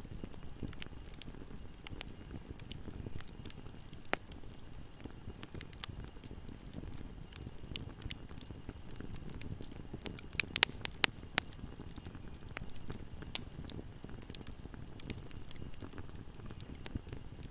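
Bonfire burning: a steady low rumble of the flames with scattered sharp crackles and pops, and a quick run of louder pops about ten seconds in.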